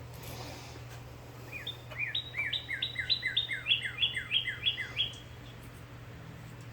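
A songbird singing a quick series of about a dozen down-slurred notes, roughly three or four a second, starting about a second and a half in and stopping about five seconds in, over a steady low hum.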